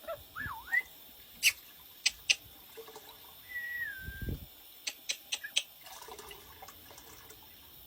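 A bird whistling short notes that swoop up and down in pitch, twice, with a run of sharp clicks between them and one dull thud about four seconds in.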